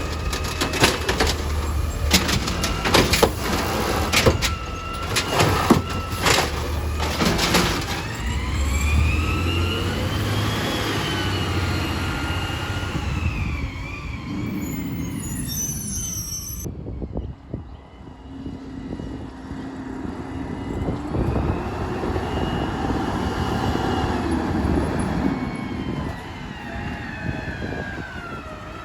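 Yard-waste garbage truck at work: a run of clanks and bangs over the first several seconds, then the engine revving up and down under load with a whine that rises and falls, and the truck running steadily in the second half.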